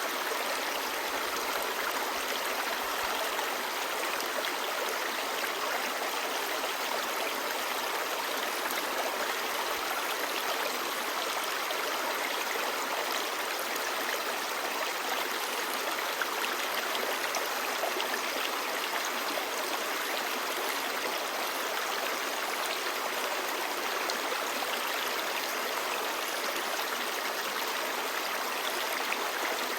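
Clear mountain stream babbling steadily over rocks, a continuous even rush of water.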